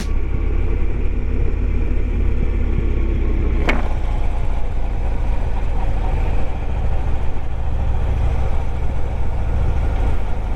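Harley-Davidson Ultra Limited's V-twin engine running with a steady low rumble, with a brief sharp click a little under four seconds in.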